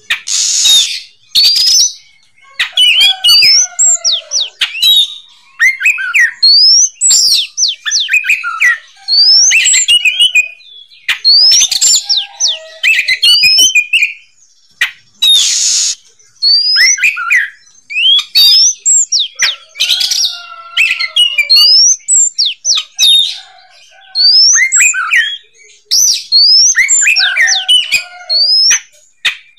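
Oriental magpie-robin singing a loud, varied song of rapid whistled phrases with quick rising sweeps, repeated with short pauses between them, broken by a few harsh, hissing notes.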